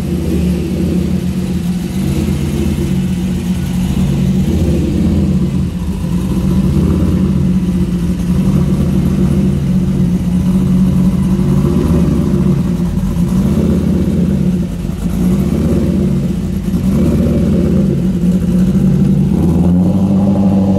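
Chevrolet C5 Corvette's V8 engine running at low revs as the car rolls slowly along, a steady deep note that swells slightly a few times.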